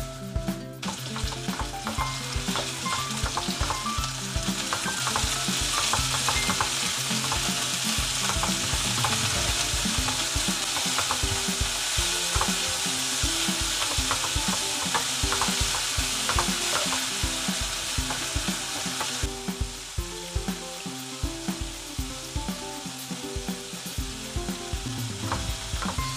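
Minced pork and sliced green onions sizzling in oil in a frying pan, stirred and broken up with a wooden spatula that scrapes and taps against the pan. The sizzle swells a few seconds in and eases back about two-thirds of the way through.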